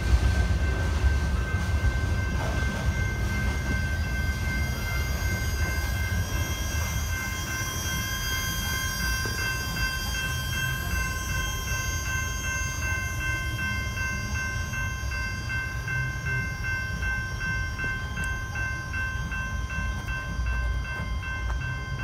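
Freight train of covered hopper cars rolling past with a low rumble. A grade-crossing warning bell then rings steadily over the continuing rumble.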